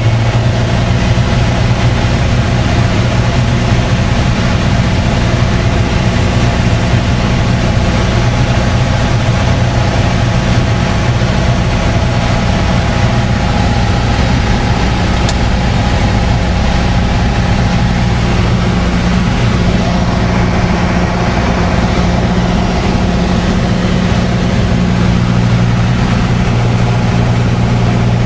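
Piper PA-28-161 Warrior's four-cylinder Lycoming engine and propeller droning steadily, with a slight change in pitch about 25 seconds in.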